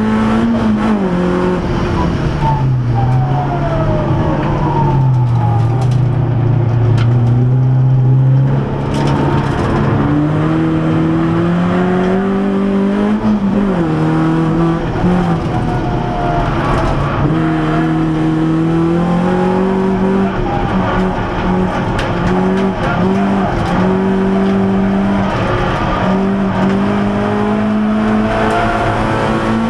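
Renault Clio RS's four-cylinder engine heard from inside the cabin, pulling hard on track: the pitch climbs steadily through each gear and drops back at the shifts, several times, with the revs rising and falling for the bends.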